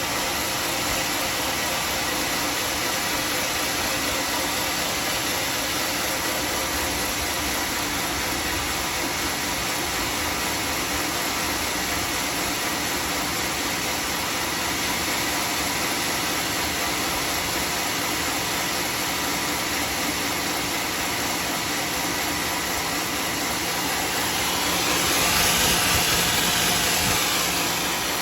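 Homemade sawmill running steadily while sawing teak, with a constant hissing noise. Near the end it grows louder and brighter for a few seconds, then settles back.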